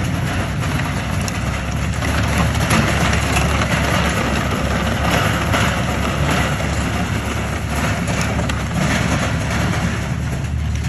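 Engine of a small utility vehicle (a 'buggy') running steadily at low speed.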